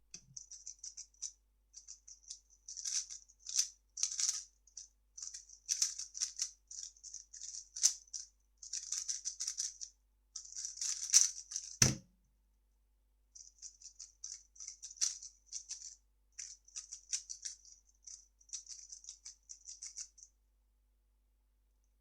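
Plastic 3x3 speedcube being turned fast, a dense rattly clicking in quick bursts for about twelve seconds. Then one sharp thump, the loudest sound. After a short pause the turning clicks start again for about seven seconds.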